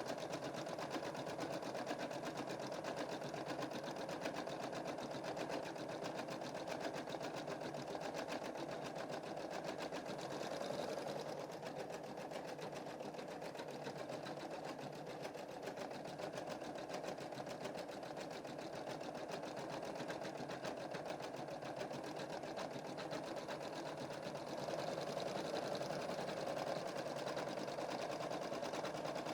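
Computerized embroidery machine stitching a design continuously, the needle bar running in a fast, even rhythm of rapid clicks, easing slightly in level around the middle and picking up again near the end.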